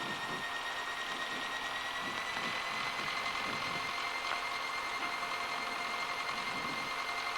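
Piper Cherokee Six's six-cylinder Lycoming piston engine running steadily at low power before the takeoff roll: an even drone with a thin whine that rises very slightly.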